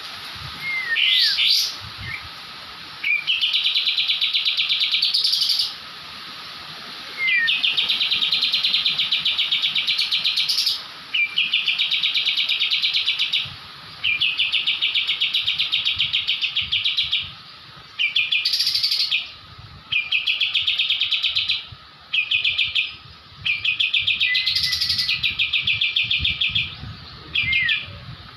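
A kapas tembak songbird singing in full 'ngebrem' style: long, rapid, buzzy trills of a couple of seconds each, about nine in a row with short breaks between them.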